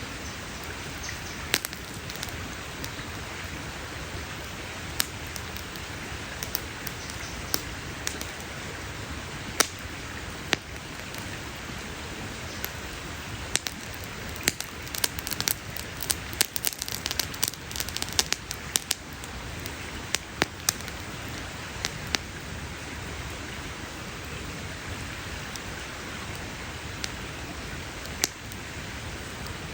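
Wood campfire crackling over a steady hiss, with sharp pops scattered throughout and a quick run of pops about halfway through.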